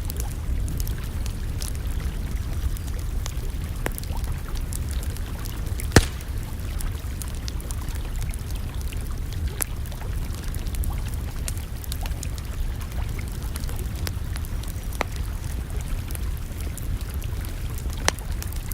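Wood campfire crackling, with scattered sharp pops, the loudest about six seconds in and another near the end, over a steady low rumble.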